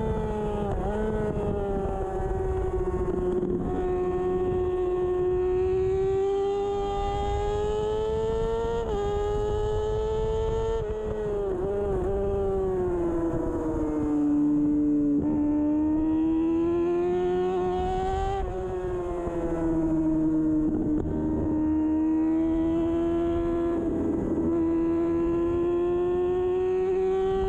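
2013 Kawasaki Ninja 636's inline-four engine running hard at high revs on track. The pitch rises and falls steadily, with several brief sharp dips, over a low wind rush.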